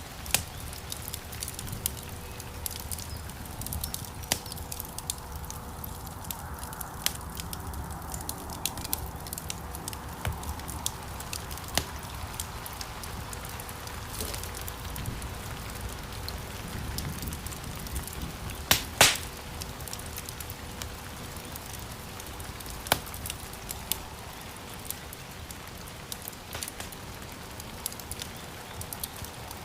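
Wood fire burning in a stone fireplace: a steady low rumble and hiss of flames with frequent sharp crackles and pops of burning logs, the loudest a double pop a little past the middle.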